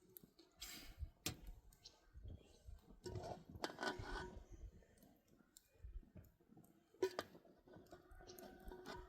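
Faint, scattered clicks and taps with short scraping or rustling sounds, like small objects being handled; one sharper click about seven seconds in.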